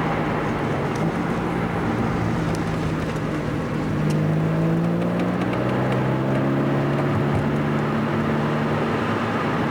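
Car engine running on the road with steady tyre and road noise, heard from inside the car; the engine note dips and rises a little around the middle.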